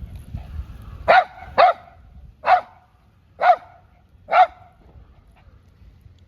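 A dog barking five times in short single barks, the first two close together and the rest about a second apart, over a low steady rumble.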